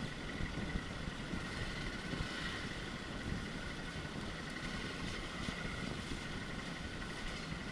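Off-road motorcycle running along a forest trail, with steady wind rumble on the microphone.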